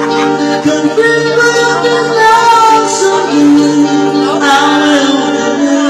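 A man singing with instrumental backing music, the voice holding and bending long notes over steady chords.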